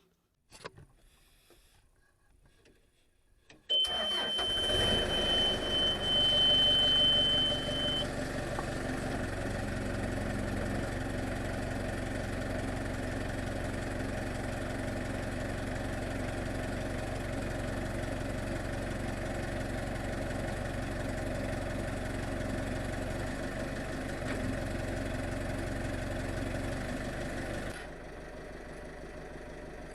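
An engine starts up with a steady high-pitched warning beep for its first four seconds or so, then runs at a steady idle; it drops down noticeably near the end.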